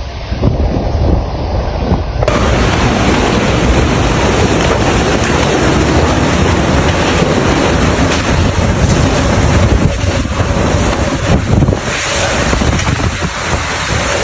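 Strong storm wind buffeting the microphone: a loud, steady rush of noise. There is a cut to another storm recording about two seconds in.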